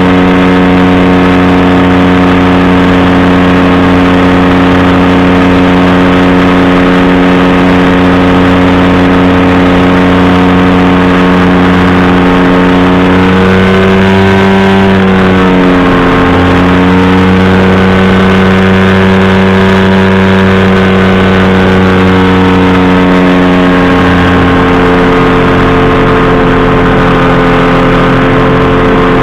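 Powered parachute's engine and propeller running steadily and loudly at a constant drone. Around the middle the engine speed rises briefly, dips, then settles back to the same note.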